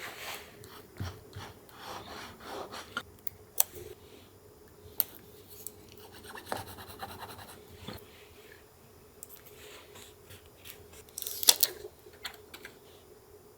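Paper being handled for collage: irregular rustling and scratching of paper with sharp light taps and clicks, and a louder rustle near the end.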